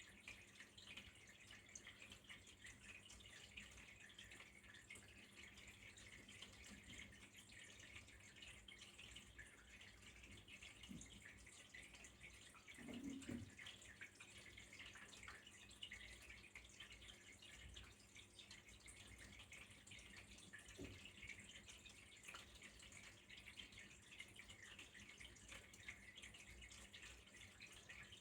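Faint, steady trickle of flowing water with a patter of drips, heard in a small room. A soft low thump about 13 seconds in.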